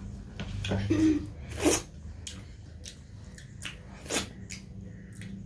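A person eating close to the microphone: chewing and mouth smacks with scattered short clicks, and two louder short noises about one and a half and four seconds in, over a low steady hum.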